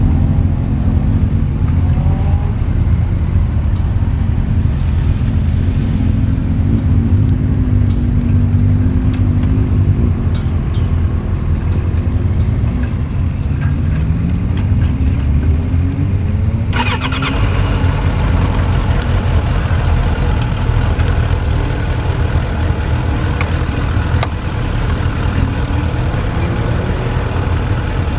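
Motorcycle engine heard close up from the fuel tank while riding, its pitch rising and falling several times as it revs and changes speed. About two-thirds of the way in, a steady hiss comes in suddenly and stays.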